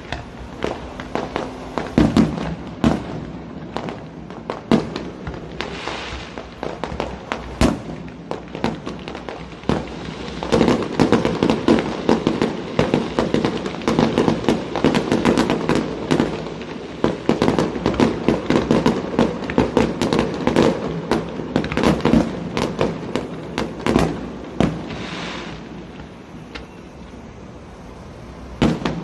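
Fireworks display: aerial shells bursting in sharp bangs, building about ten seconds in to a dense, rapid barrage of bangs and crackle that thins out near the end, with one last loud bang.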